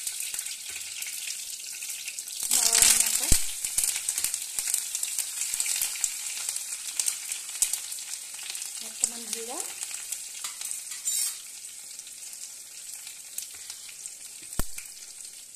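Chillies and leafy greens frying in hot oil in a stainless steel kadai: a steady high sizzle with scattered spatter crackles, surging loudly for about a second some two and a half seconds in, with a sharp click near the end.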